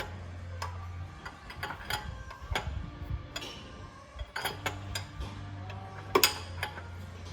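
Irregular metallic clicks and ticks from a socket wrench worked on a stuck oil filter as it is forced to break loose, with two louder clicks about six seconds in. A steady low hum is underneath, dropping out for a while partway through.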